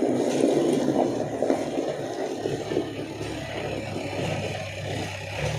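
JCB 3DX backhoe loader's diesel engine running under work, with a steady low hum and a rougher rattling noise that is loudest in the first second or so, then eases a little.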